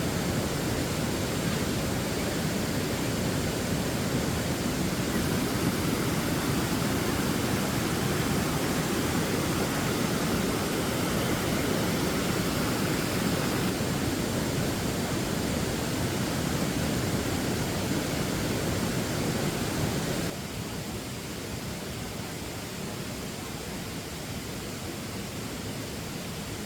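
Multi-tiered waterfall: a steady rush of falling water. About twenty seconds in it drops abruptly to a quieter rush.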